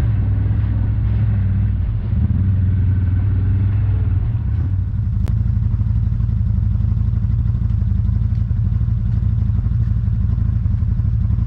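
Motorcycle engine running steadily while riding, a continuous low hum with a short dip in level about two seconds in.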